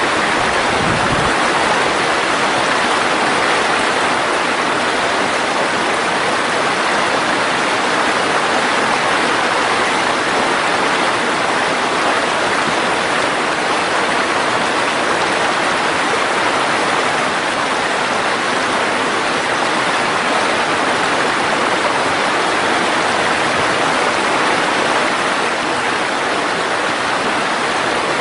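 Mountain stream rushing over rocks in a steady, even flow.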